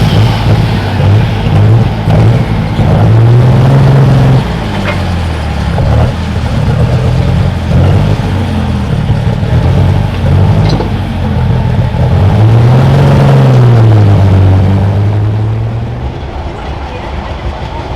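Pulling tractor's engine running loud with its revs swinging up and down, then easing back and dropping in level near the end.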